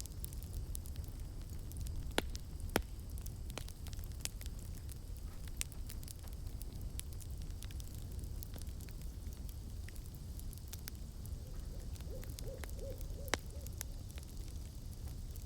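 Campfire crackling, sharp pops scattered over a steady low rumble and hiss. About twelve seconds in, an owl gives a quick run of about five short hoots.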